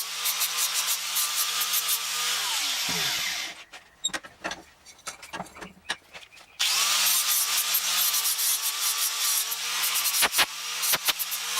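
Electric angle grinder grinding a steel exhaust pipe to fit, with a steady motor whine and a harsh scraping hiss. It winds down about two and a half seconds in, leaving a pause with a few light knocks. It spins up again just after the middle and keeps grinding.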